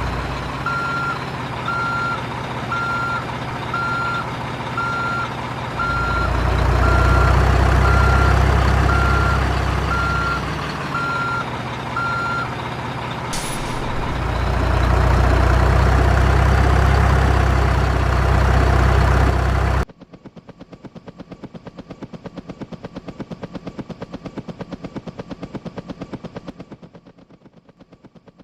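Truck engine running with a reversing alarm beeping about once a second for the first twelve seconds; the engine swells louder twice. About two-thirds of the way through the sound cuts abruptly to a fast, even run of clicks that fades out near the end.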